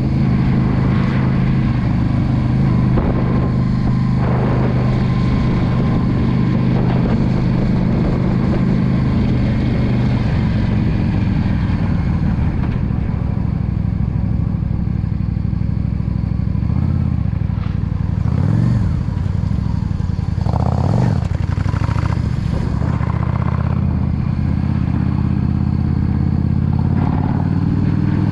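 Yamaha V Star 650's air-cooled V-twin engine running steadily under way. In the second half the engine note drops and climbs again several times, as the bike slows and picks up speed, then settles back to a steady run near the end.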